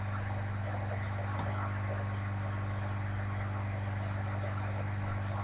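Steady low hum inside a car's cabin, the engine idling while the car waits at a red light.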